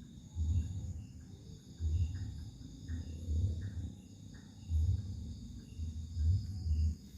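Crickets and other insects chirring steadily at a high, even pitch, under repeated low rumbles about once a second.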